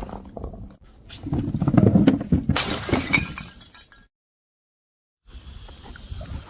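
Glass bottle smashing: a heavy crash and a bright shatter, with shards clinking as it dies away. The sound then cuts out completely for about a second before faint background returns.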